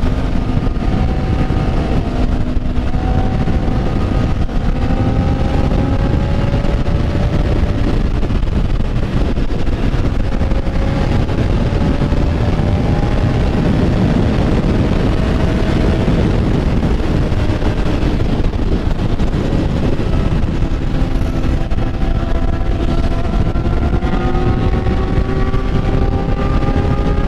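Motorcycle engine running under way, with heavy wind rush on the microphone. Its note climbs slowly several times as the bike accelerates.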